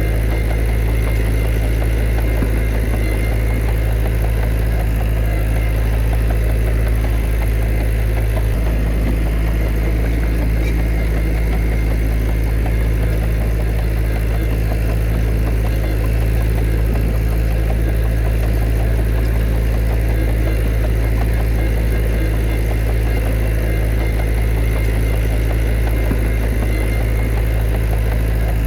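Heavy diesel engine of earthmoving machinery running steadily, a loud, even low hum that holds unchanged throughout.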